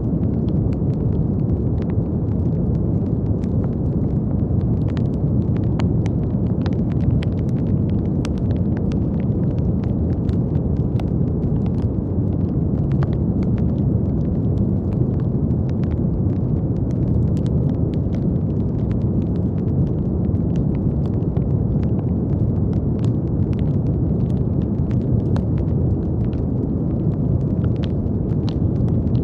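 Steady brown noise: an even, deep rumbling hiss weighted to the low end, with faint scattered crackles over it.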